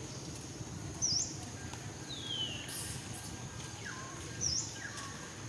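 Birds calling outdoors: a short, sharp, high chirp repeats about every three seconds, with a few lower whistles that slide downward in pitch in between. A steady high-pitched insect drone runs underneath.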